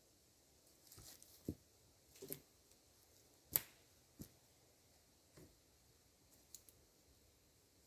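Sparse, sharp snaps and knocks of wood being worked by hand, about seven over several seconds, the loudest a crisp crack a little past halfway.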